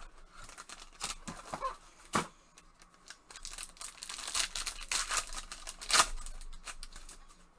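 A trading-card box and pack being torn open and handled: a run of tearing, crinkling and sharp clicks, loudest about two seconds in and again near six seconds.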